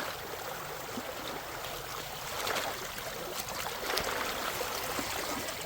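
Creek water running and trickling in a steady wash, with a few light clicks mixed in.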